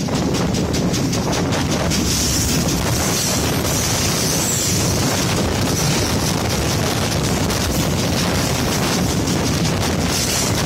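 Two trains passing at speed on adjacent tracks, heard from the open doorway of a moving passenger coach: a steady, loud rush of wheel and rail noise and wind, with wind buffeting the microphone. About two seconds in, the oncoming locomotive goes by and the freight train's container wagons start streaming past close alongside.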